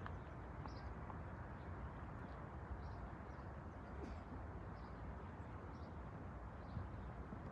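Steady low background noise with faint short high chirps of a small bird, about one a second.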